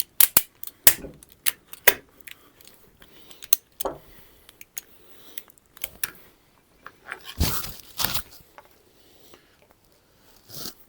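A ratchet strap being released from a motorcycle fork: sharp ratchet clicks and metal knocks, with a longer rasping noise of the strap and parts being handled about seven seconds in.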